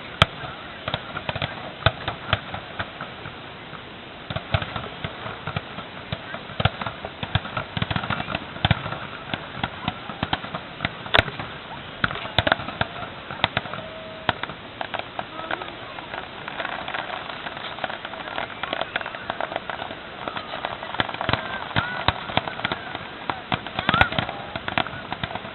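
Fireworks going off: a dense, irregular run of sharp pops and crackles, with a few louder single cracks, one about a third of the way in and one near the end.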